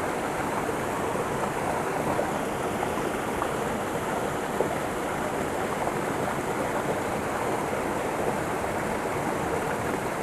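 A small creek's waterfall running, with water pouring and splashing over rocks in a steady rush.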